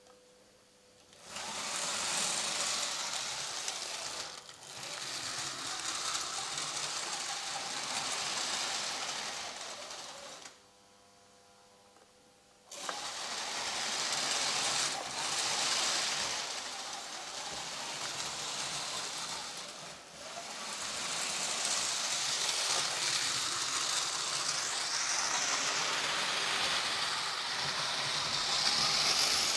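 Märklin 3048 HO-scale model steam locomotive running on its track after restoration: the small electric motor whirs and the wheels clatter along the rails. It starts about a second in, goes quiet for about two seconds near the middle, then runs on.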